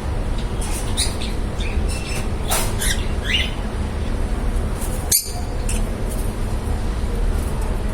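Pet lovebirds giving short, high chirps and squawks, including one quick rising call, mostly in the first few seconds, over a steady low hum. A single sharp click about five seconds in.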